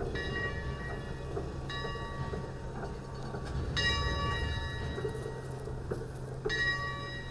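Leviathan #63 replica steam locomotive's bell ringing, four strikes about two seconds apart, each ringing on briefly. Under it runs the steady low rumble of the train.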